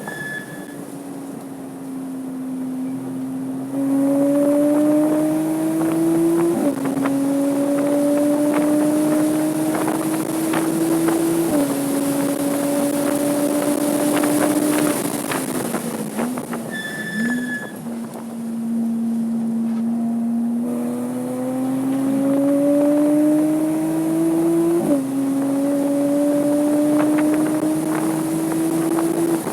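Porsche 987.2 Cayman S's 3.4-litre flat-six engine pulling hard on track, its pitch climbing through each gear and dropping sharply at three upshifts. Around the middle the pitch falls and dips as the car brakes and slows, then climbs again, over steady wind rush. A brief high tone sounds twice.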